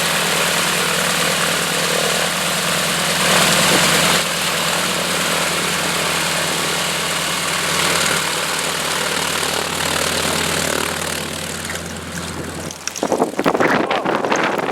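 Propeller airplane engine running steadily with an even hum. About thirteen seconds in the engine tone drops away and irregular rumbling bursts take over.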